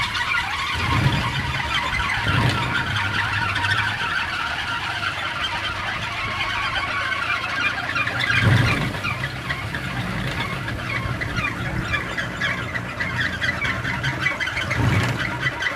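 A large kolecer, a wooden wind propeller, spinning in the wind with a low droning hum that swells in surges, loudest about eight and a half seconds in.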